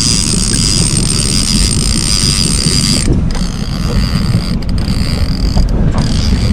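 Wind buffeting the microphone over the steady rumble of a boat's motor, with a steady high whine that cuts off about halfway through.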